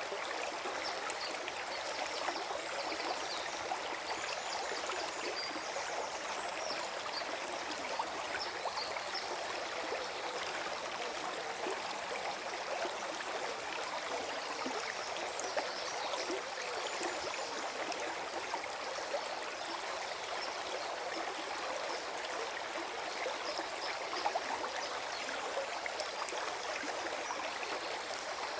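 Small forest stream flowing and gurgling steadily over stones, an even, continuous water sound.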